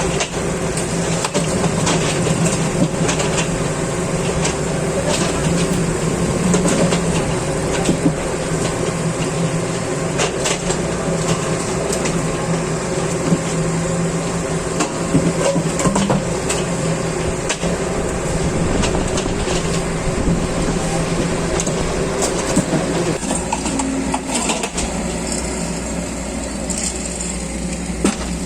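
Track-maintenance machinery running with a steady engine hum, with scattered sharp metallic knocks and clinks from railway track repair work. The engine hum eases about three quarters of the way through.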